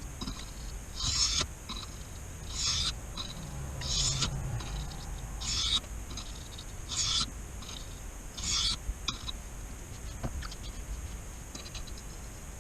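Steel pocket-knife blade being stroked across a wet 400-grit whetstone: a gritty scrape about every second and a half, seven strong strokes, then fainter, shorter scrapes after about nine seconds.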